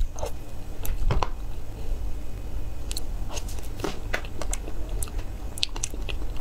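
A person chewing and biting food, with irregular sharp clicks and short crackles.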